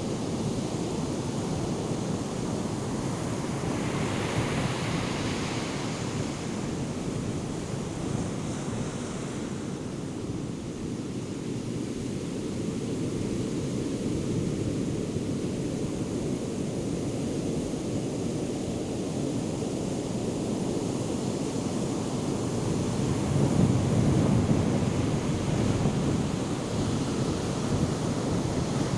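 Ocean surf from a hurricane swell: waves breaking and washing in a continuous rumbling hiss, with wind buffeting the microphone. A brighter hissing wash comes about five seconds in, and a louder low surge of a breaking wave about four-fifths of the way through.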